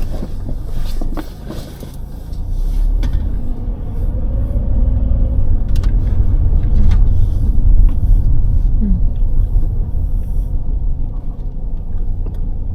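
Steady low rumble of a car's engine and road noise, heard from inside the car while driving, with a few faint clicks.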